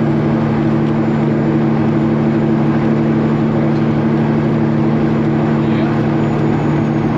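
Straight-piped Peterbilt 389 semi's diesel engine running at a steady cruise: a loud, even exhaust drone that holds one pitch.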